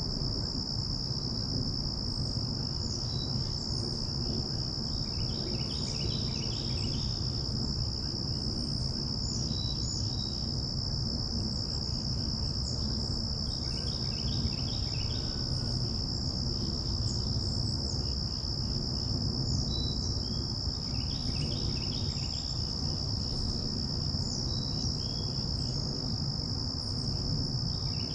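A steady, unbroken high-pitched insect trill, with short bursts of rapid chirping repeating every few seconds over it and a low rumble of breeze on the microphone underneath.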